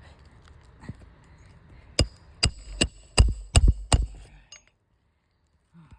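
Hand hammer driving roofing nails into an asphalt shingle: six quick, ringing metal-on-metal blows, about two or three a second, after a lighter tap.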